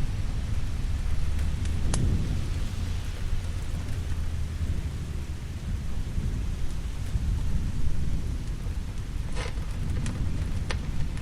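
Steady rain with a continuous low rumble of thunder. A fireplace fire gives a few sharp crackling pops: one about two seconds in and two near the end.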